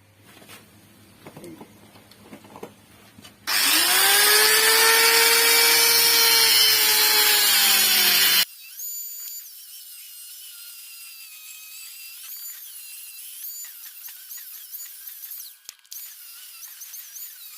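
A few light taps, then an electric power tool runs for about five seconds. Its whine rises as it spins up and sags near the end, and it cuts off abruptly. After that, fainter high-pitched warbling tones carry on.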